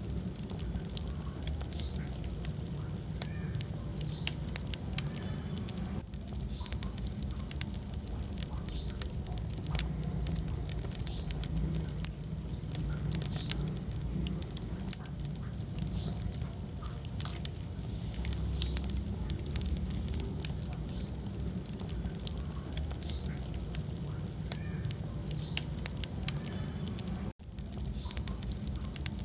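Wood fire burning in a fireplace: steady crackling and popping of the burning logs over a low rumble of flame, with a few louder pops. The sound cuts out for an instant near the end.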